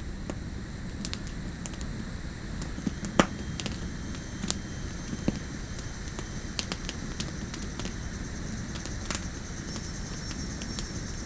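Campfire burning with a steady low rush and occasional sharp crackles and pops, the loudest about three seconds in.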